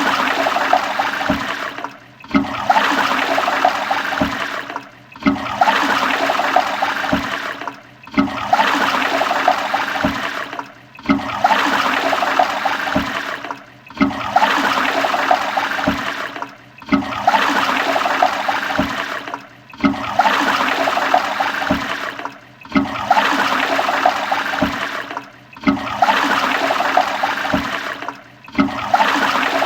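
Toilet flushing: rushing, gurgling water that starts suddenly, fades and starts again about every three seconds, ten times over in a regular loop.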